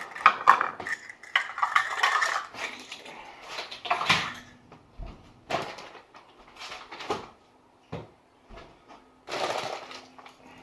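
Kitchen utensils and dishes clattering on a counter as measuring cups, spoons and ingredient containers are cleared away: a busy run of knocks and clinks for the first few seconds, then a few separate knocks.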